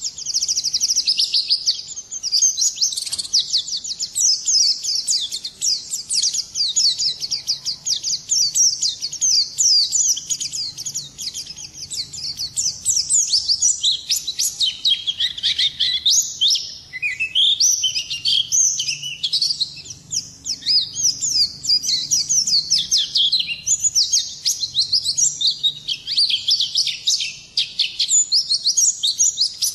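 Pleci (white-eye) songbird singing without let-up: a long, fast stream of high, thin twittering notes and quick chirps, with only brief pauses.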